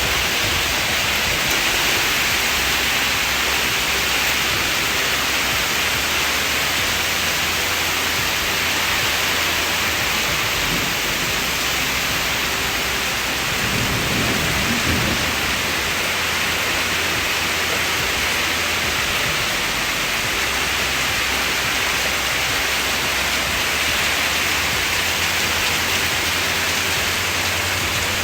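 Heavy rain falling steadily in a thunderstorm, a dense even hiss, with a brief low rumble about halfway through.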